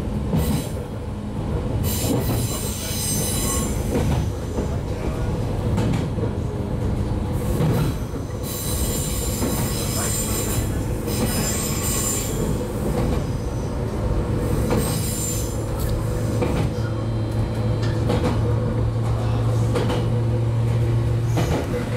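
Running sound of a JR 115-series electric train heard from inside the motor car KuMoHa 115-302: a steady rumble of wheels on rail with a low traction-motor hum. High-pitched wheel squeal comes and goes several times.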